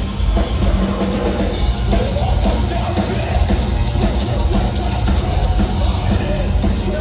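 Live metalcore band playing loud, heavy music with the drum kit and kick drum prominent.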